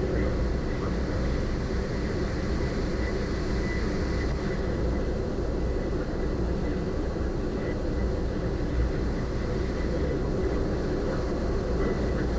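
Steady low rumble of a passenger ferry's engines under way, an even drone with no change in level.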